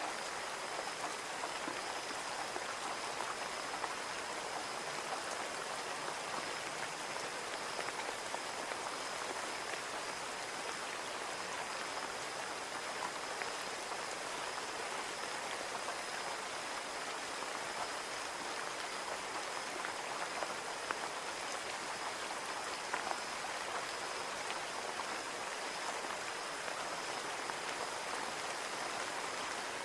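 Steady rain on a window, with many small drop ticks against the glass over an even hiss.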